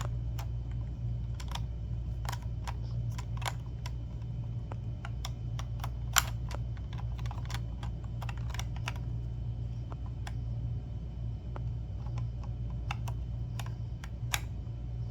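Small plastic Lego pieces clicking and clattering irregularly as they are handled, with one sharper click about six seconds in, over a steady low hum.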